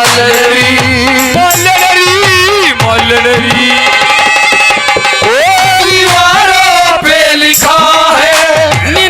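Haryanvi ragni accompaniment: a hand drum plays a steady rhythm, its low strokes sliding down in pitch, under a melody that slides and bends.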